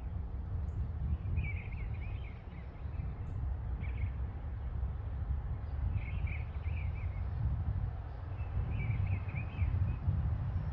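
Small birds chirping in short bursts, four or so times, over a steady low outdoor rumble.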